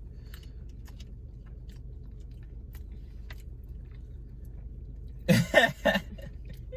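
A person eating a sandwich: faint small chewing and mouth clicks over a low steady hum, then a short loud vocal burst of three quick pulses about five seconds in.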